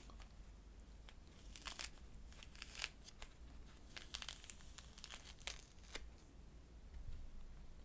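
Citrus fruit being peeled by hand: a series of short tearing, crackling sounds as the peel pulls away from the flesh.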